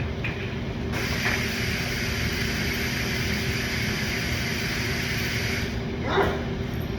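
A steady hiss that comes in about a second in and drops away near the end, over a low steady hum.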